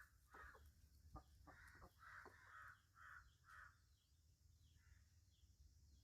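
Chickens calling faintly: a run of short, repeated calls about two a second, then one more near five seconds, with a few light knocks.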